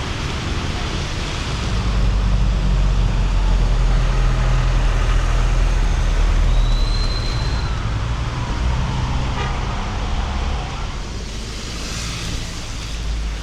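Road traffic on a wet street in the rain: passing vehicles with a low engine rumble and steady tyre hiss. A brief high tone comes about six and a half seconds in, and a passing vehicle's whine falls in pitch a little later.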